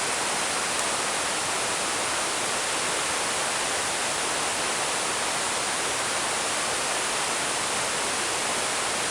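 Steady rush of a forest stream and small waterfall running high and heavy after days of heavy rain.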